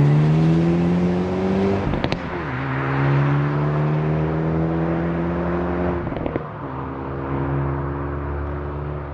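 Hyundai i30 N's 2.0-litre turbo four-cylinder accelerating hard through the gears of its six-speed manual. The pitch climbs, then drops at two upshifts about 2 and 6 seconds in, each marked by short sharp cracks. In each higher gear the pitch rises more slowly.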